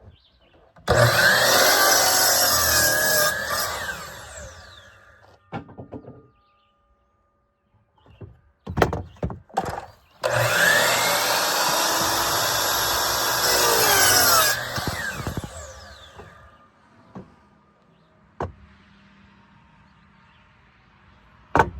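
Electric power saw cutting through wood twice, each cut lasting about three to four seconds, with the blade winding down after each cut. Short knocks and clatter between the cuts and near the end.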